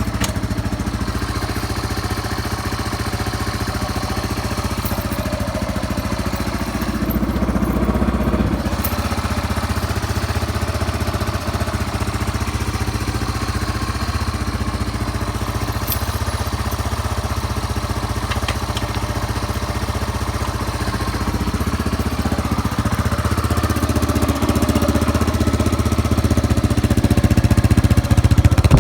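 Yamaha Serow 225's air-cooled single-cylinder four-stroke engine running, mostly at idle, with a brief rise in revs about seven seconds in and the revs climbing gradually near the end. It runs without any abnormal noise.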